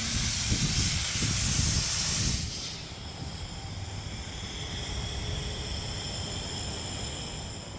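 Loud steady hiss of carbon arc air gouging cutting into the dozer blade's steel. It cuts off about two and a half seconds in, leaving a fainter steady hiss with a few high whining tones.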